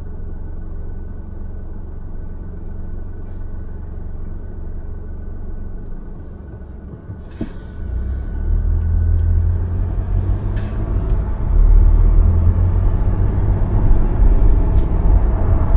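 Car on the road: a steady low rumble of road and engine noise that dips slightly about six seconds in, then grows louder from about eight seconds on, with a couple of short clicks.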